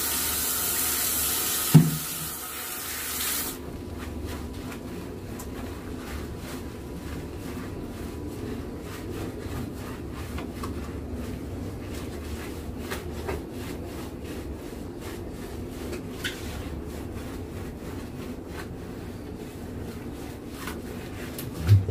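Water running from a tap or shower for about three and a half seconds, then cut off, followed by steady wet rubbing and scrubbing with small clicks as a golden retriever's coat is washed. There is a brief, loud, low sound about two seconds in and another at the very end.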